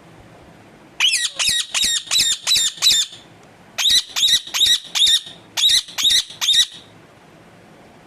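Pet parrot giving about a dozen short, harsh squawks in three quick runs, which its owner takes for anger.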